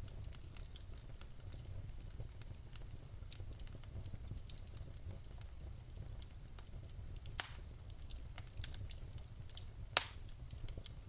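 Wood fire crackling in a fireplace: many small irregular pops and snaps over a steady low rumble of the flames, with two louder pops about seven and ten seconds in.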